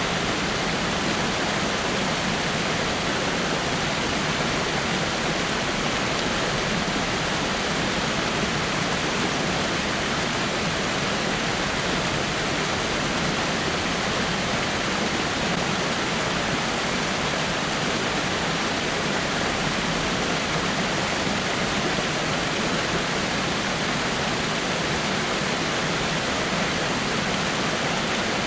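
Water falling over rocks in a small waterfall, a steady, even rush with no breaks.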